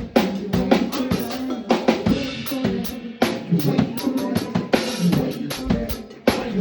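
Live band playing an instrumental passage, the drum kit prominent with kick and snare strokes over sustained pitched tones. The band cuts out for a moment twice, just after the start and near the end.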